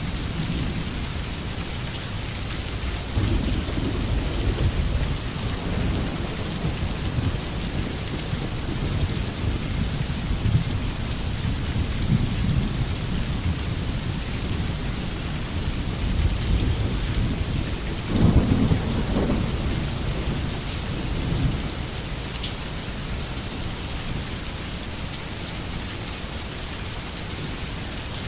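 Steady rain hissing, with low rolls of thunder swelling up twice: a few seconds in, and more strongly about eighteen seconds in.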